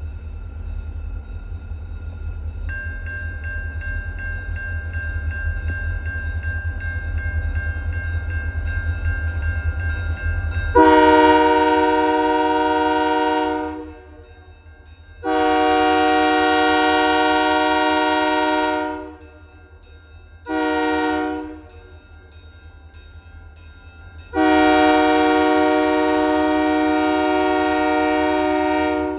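Diesel freight locomotives rumbling closer, then the lead unit's air horn sounding the grade-crossing signal: two long blasts, one short, one long. The rumble grows for about ten seconds before the horn begins.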